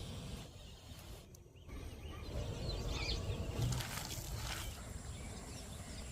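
Outdoor ambience: a steady low rumble, with a few faint high chirps around the middle.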